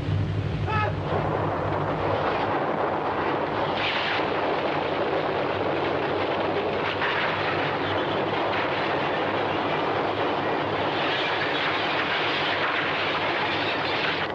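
A loud, unbroken rumbling roar, a film sound effect for an earthquake shaking a city.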